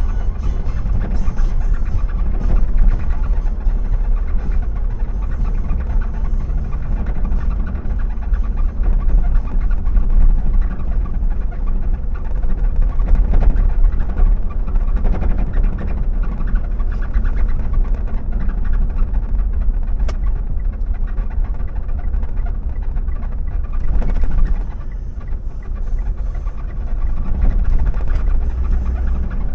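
A car being driven: steady low engine and road rumble.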